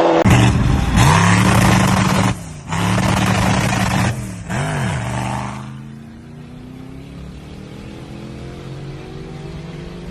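Rally car engine accelerating hard, its pitch climbing, with two short breaks about two and four seconds in as it changes gear. It then passes and fades away, its pitch sliding steadily lower.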